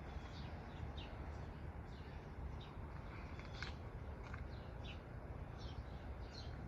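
Small birds chirping: short, high, downward-sliding chirps repeated roughly every half second, over a faint steady low rumble.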